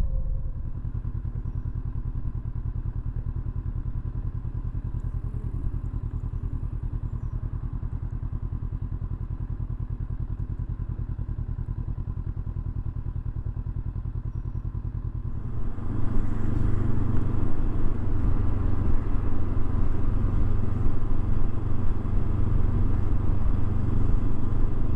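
Motorcycle engine ticking over steadily at low revs, then growing louder about 16 seconds in and staying loud as the bike gets under way.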